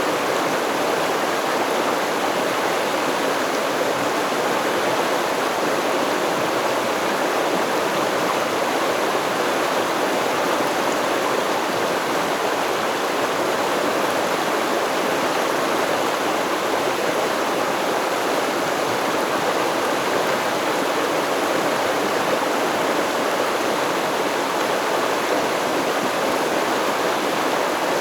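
A stream of water flowing and rushing over rocks, a steady even wash of sound with no breaks.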